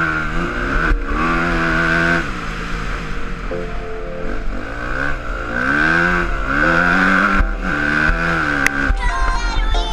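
Four-stroke motocross bike engine revving up and down over and over as it is ridden, with music underneath. Near the end the engine fades out and the music takes over.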